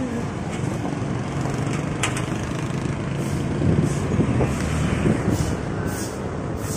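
Road traffic: a motor vehicle's engine humming steadily close by, with wind buffeting the microphone and a sharp click about two seconds in.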